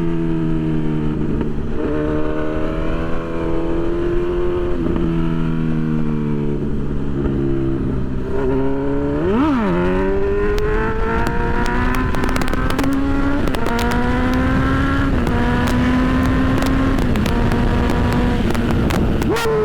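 Honda CB1000's inline-four engine on the move. Its note steps down through several gear changes, then revs sharply up and back down about halfway through. It then pulls through a series of gear changes, with wind and road noise under it.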